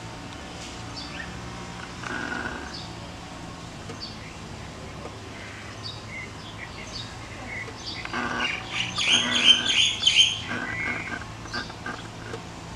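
Small birds chirping: a short high chirp repeats about once a second, and about eight seconds in a louder run of rapid calls lasts a couple of seconds, over a steady low hum.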